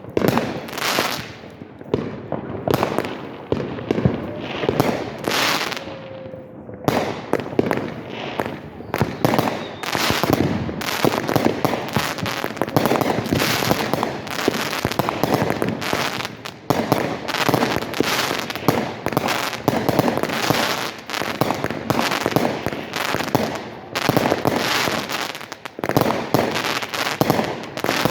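Fireworks going off: separate bangs about once a second at first, then from about seven seconds in a dense, nearly continuous barrage of bangs and crackling.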